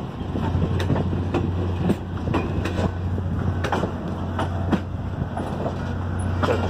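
Cars of a passing circus train rolling by, wheels clicking and clacking over the rail joints over a steady low rumble.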